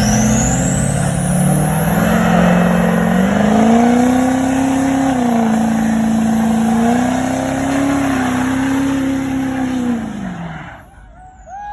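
Vehicle engine revved hard and held high, its pitch wavering, over a loud hiss of spinning tyres in a burnout; the revs drop off near the end.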